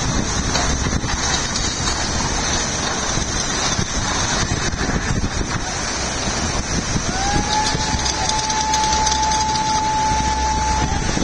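Steady rushing of wind on the microphone mixed with water noise. About seven seconds in, a siren winds up to one steady pitch and holds it.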